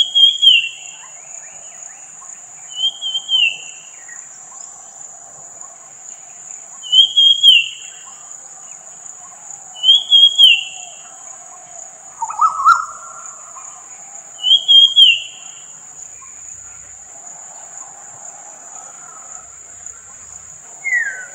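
A bird giving a short, falling call five times, every three to four seconds, over a steady high insect trill. A lower, louder call comes about twelve seconds in, and a short downward note near the end.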